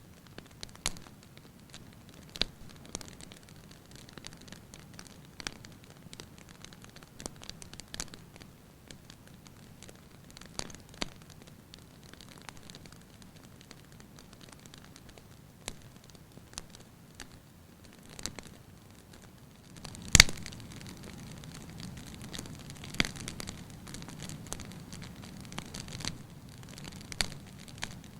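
Wood fire burning in a fireplace, crackling with scattered sharp pops. One loud pop comes about twenty seconds in, and after it the low noise of the flames grows louder.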